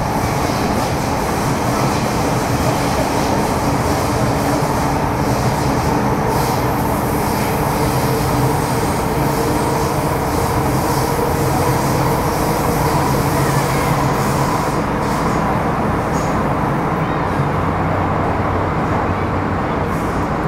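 Inside a Metro Cammell M-Train electric multiple unit (MTR CT-Stock, GEC GTO chopper traction) running between stations: the steady rumble of wheels on the rails with a few steady, even tones over it.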